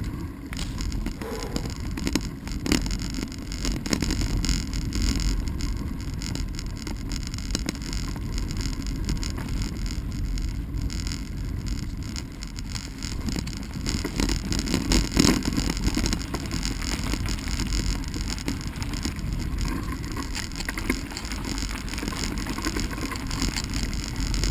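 Bicycle riding over a dirt trail: a steady rumble of tyres on the ground, with short knocks and rattles from the bike over bumps.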